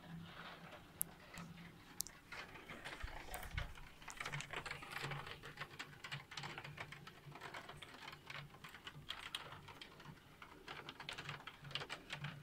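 Rain falling, heard as a dense, irregular scatter of sharp ticks and taps from drops landing close by, over a faint hiss.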